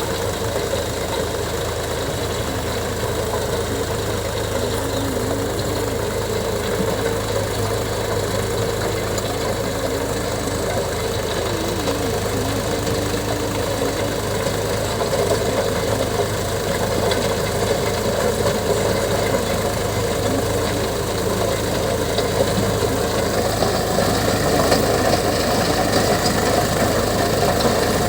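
Indo Farm 3048 tractor's diesel engine running steadily, a little louder in the last few seconds.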